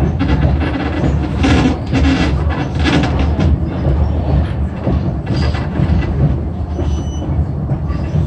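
Passenger train rolling along the track, heard from on board: a steady low rumble with irregular rattles and clacks of the car.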